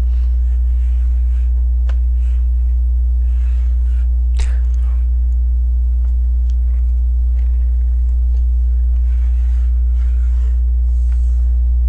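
Steady low electrical mains hum, with a ladder of higher steady tones above it, dominates the recording. A few faint clicks and soft rustles sound over it, the loudest about four and a half seconds in.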